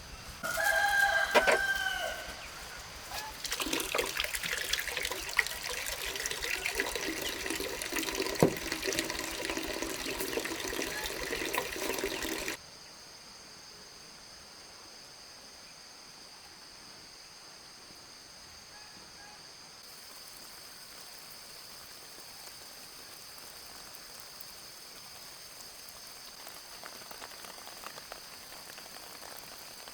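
A rooster crows once near the start, about a second and a half long. After it comes an even noisy hiss with scattered clicks, which cuts off suddenly about twelve seconds in, leaving a faint steady high hum.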